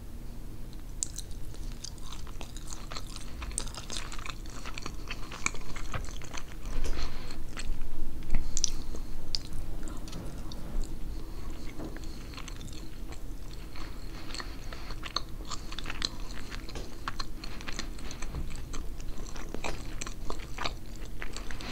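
A person chewing a forkful of yellow rice and beans close to the microphone: a steady run of small crackling clicks, loudest about seven to nine seconds in.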